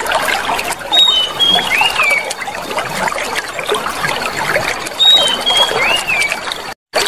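Clear water trickling and gurgling steadily, as from a small stream. A bird whistles a short phrase of gliding notes twice, about a second in and again about five seconds in. The sound cuts out for a moment near the end.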